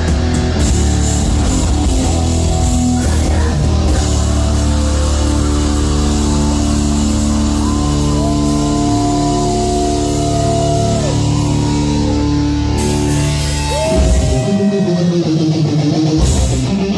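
Loud live heavy metal band with distorted electric guitars and drums. After a dense opening the guitars hold long ringing notes, one bending in pitch. About fourteen seconds in, the heavy low end drops out and busier guitar playing takes over.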